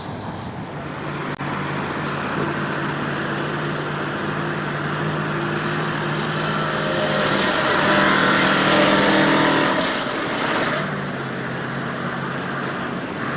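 Truck engine running under load, pulling harder about halfway through with a loud rushing noise for a few seconds, then easing back to a steadier run.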